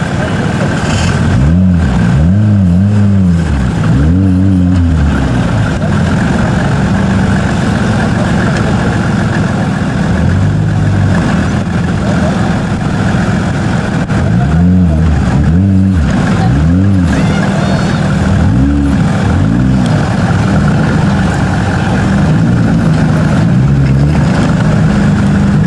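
Suzuki Samurai off-road trial car's engine revved up and down in a run of short bursts a couple of seconds in and again about halfway through, running steadily at low revs in between as it crawls over rough ground.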